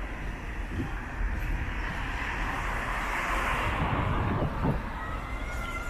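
City street traffic with a vehicle passing close by, its noise swelling and fading about halfway through. Two faint high steady tones come in near the end.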